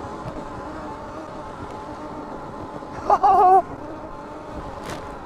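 Sur-Ron electric dirt bike riding through deep powder snow, its motor giving a faint steady whine over snow and wind noise. About three seconds in, a loud wavering pitched sound cuts in for about half a second.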